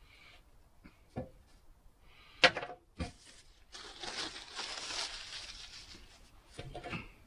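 Handling noises: a few sharp clicks and knocks, then about two seconds of crinkling, rustling noise, then more clicks near the end.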